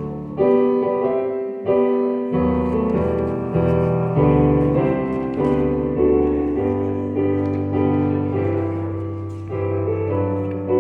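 Piano playing slow chords, each struck about once a second and left to ring and fade before the next.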